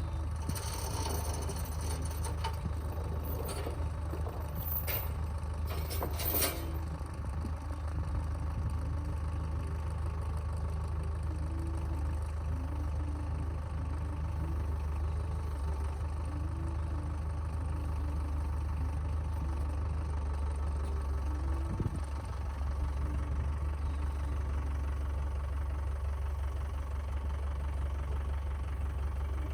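An engine idling steadily, with a few sharp knocks or clanks in the first six or so seconds.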